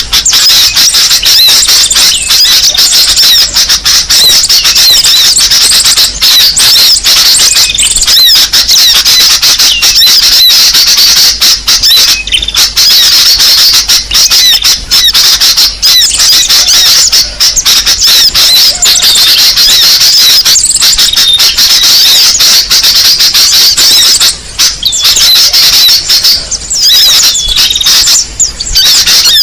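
Bird-lure recording: a dense, continuous chorus of many small songbirds chirping and twittering rapidly at high pitch, loud and without pause, of the kind used to call small birds in to a trap.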